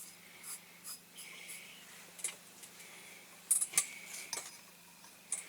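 Small handling noises at a workbench: soft, intermittent brushing and rubbing strokes, with a couple of sharp clicks a little past the middle.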